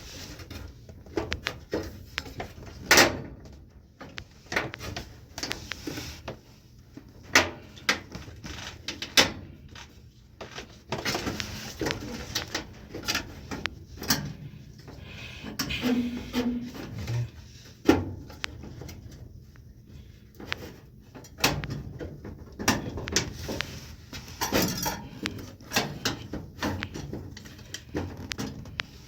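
Irregular knocks, clicks and clatter from hands working on a gas furnace's condensate drain line and its fittings, which are blocked and holding back water.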